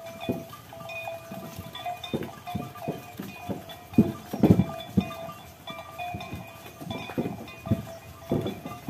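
Bells on draught cattle ringing again and again at the same few pitches, over irregular low knocks.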